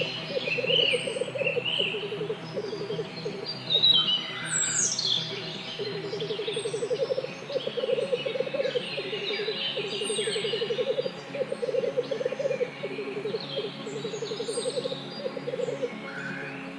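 Several birds chirping and calling at once. Throughout, a low, rapidly pulsed trill repeats in short bouts, over scattered higher chirps and quick downward-sweeping whistles.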